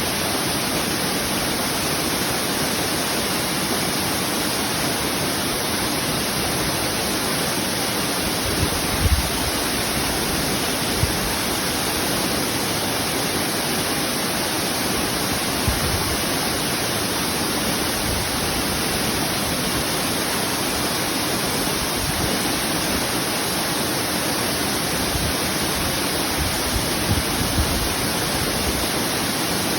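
Twin waterfall pouring steadily: a constant, loud rush of falling water across the full range, with a few brief low thumps now and then.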